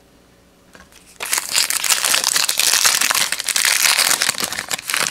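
A trading card pack's wrapper being torn open and crinkled by hand. The crinkling starts about a second in and runs on, loud and crackly.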